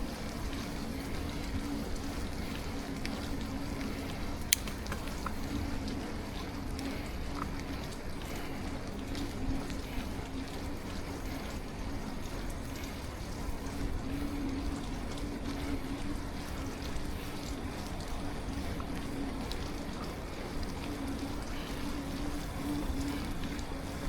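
Steady road noise of a bicycle ridden through light rain: wet tyres hissing with a low, steady hum, and a single sharp click about four and a half seconds in.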